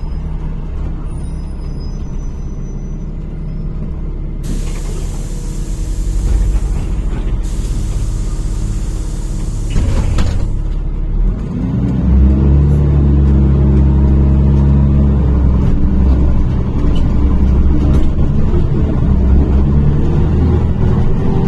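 NefAZ-5299 city bus heard from inside: the engine runs steadily, then a burst of compressed-air hiss from the pneumatic system lasts about three seconds, followed by a sharp click. From about twelve seconds the engine pulls harder and its pitch rises as the bus accelerates.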